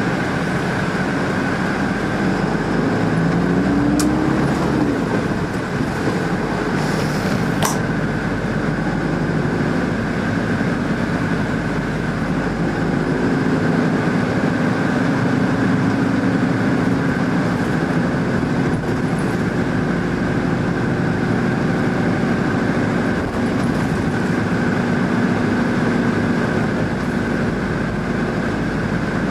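A vehicle running steadily: a continuous rumble with a low hum whose pitch briefly rises about four seconds in.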